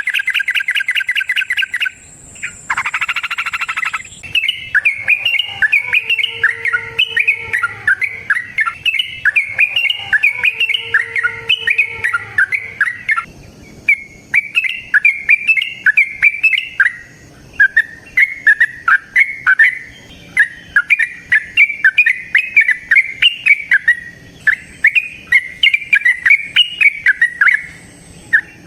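Yellow-vented bulbul singing a long unbroken run of rapid, bubbly chattering notes. It opens with a fast, even trill and then carries on in quick warbling phrases.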